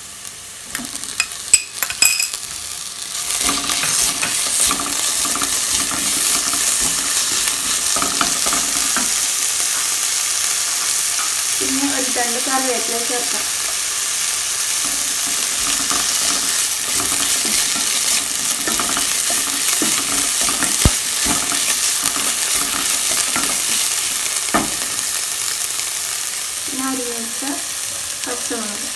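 Onions frying in hot oil in a non-stick pan with a steady sizzle, stirred with a wooden spatula. A few knocks of the spatula on the pan come in the first couple of seconds, and the sizzle swells louder about three seconds in.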